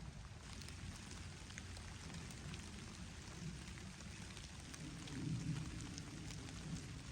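Rain falling steadily, with individual drops ticking sharply, over a low rumble that swells about five seconds in.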